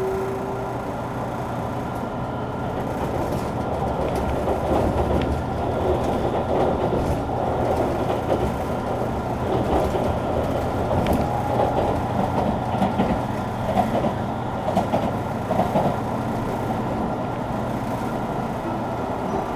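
JR Kyushu 883 series electric train heard from on board while it runs: the steady tones of its Toshiba GTO inverter traction equipment under rattling wheel-on-rail and car-body noise that grows busier midway.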